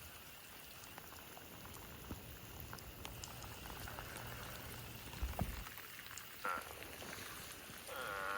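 Steady rain hiss with eastern spadefoot toads calling: one short, nasal call about six and a half seconds in, and another starting near the end.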